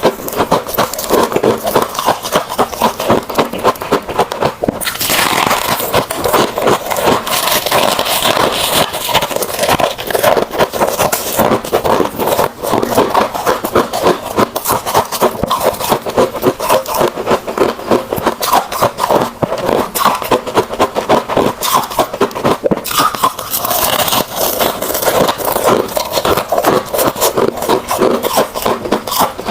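Close-miked chewing of crunchy freezer frost: steady, rapid crunching and scraping of ice between the teeth, several crunches a second.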